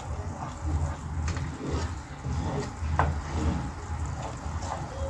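A pan of honey-garlic soy and butter sauce simmering while a spoon stirs it, with a few sharp knocks and scrapes of the spoon against the pan, the loudest about three seconds in.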